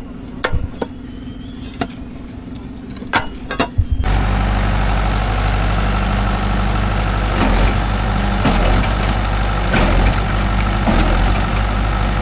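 Scattered sharp knocks and clicks, then about four seconds in a loud, steady diesel engine sound takes over abruptly and keeps running.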